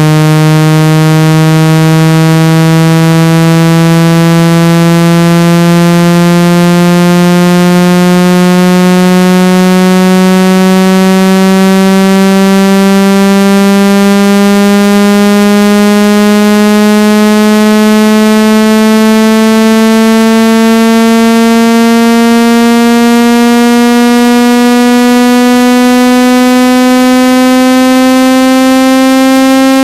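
Loud synthesized water-ejection tone, buzzy and rich in overtones, slowly rising in pitch. It is played through a phone speaker to vibrate trapped water out of it.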